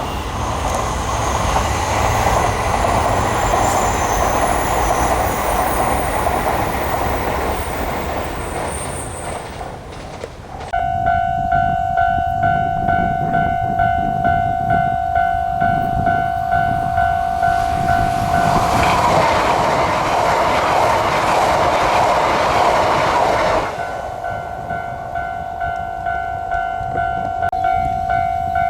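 A train runs past and fades out about ten seconds in. Then a Japanese level-crossing alarm starts ringing in an even pulse, about two rings a second. A second train runs past for about five seconds while the alarm keeps ringing.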